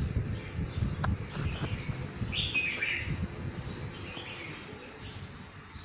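Birds chirping in the background, with a few short calls about two and a half seconds in and again around four seconds, over an irregular low rumble and a single click about a second in.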